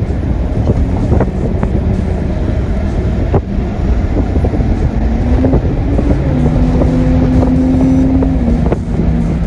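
Helicopter cabin noise: a loud, steady low rumble with wind buffeting the microphone. A low held tone rises slightly and holds for a few seconds after the middle.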